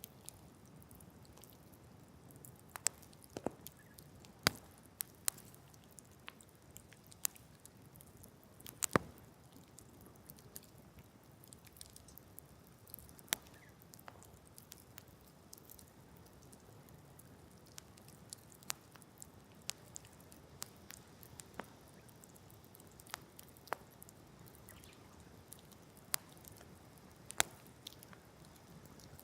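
Wood campfire crackling: irregular sharp pops and snaps over a faint low hiss, a few of them louder.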